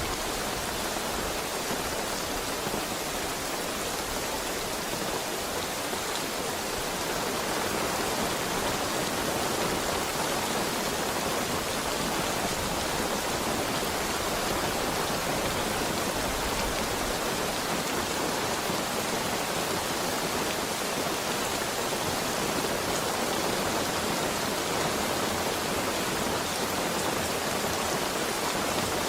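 Steady heavy rain falling, a dense even hiss with no separate drops or thunder standing out.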